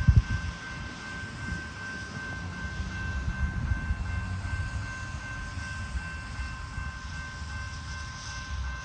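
Amtrak passenger train running past, with an uneven low rumble and a few steady high-pitched tones held throughout.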